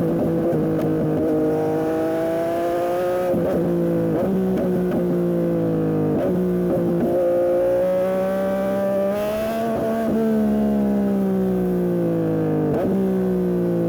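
Yamaha MT-09 SP's inline three-cylinder engine through a Dominator aftermarket exhaust, pulling hard through the gears: the revs climb, drop sharply on upshifts about 3 and 6 seconds in, climb again, then fall away as the bike slows over the last few seconds.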